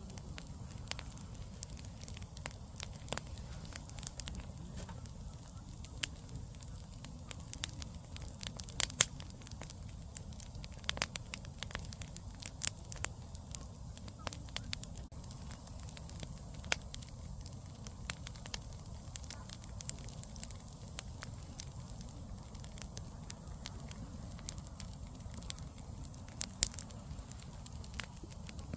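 Firewood campfire burning: a low steady rumble of flame with irregular crackling and sharp pops, a handful of them much louder than the rest.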